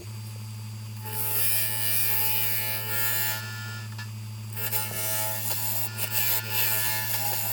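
Wood lathe switched on and running with a steady hum, then a turning tool cutting into wet poplar, shaving off ribbons while hollowing the inside of a lampshade blank. The cutting noise comes in about a second in, breaks off briefly around the middle, and resumes.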